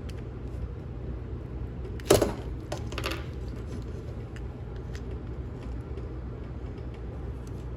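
Hard plastic parts of a Transformers action figure clicking and knocking as a piece is fitted on: one sharp click about two seconds in, then a few lighter clicks, over a steady low hum.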